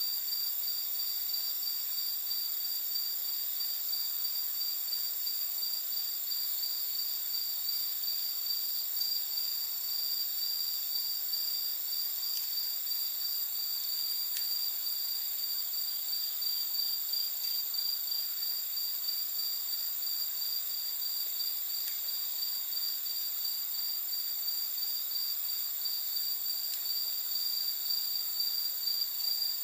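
A steady chorus of night insects, a high-pitched finely pulsing trill with higher layers above it, with a few faint crackles from the wood fire.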